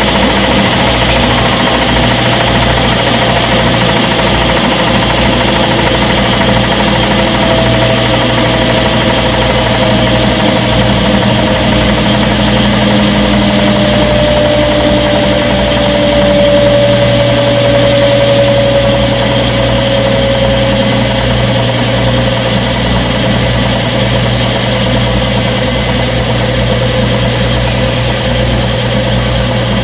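Front-load washing machine running: a steady motor hum and rumble, with a whine that slowly falls in pitch over several seconds.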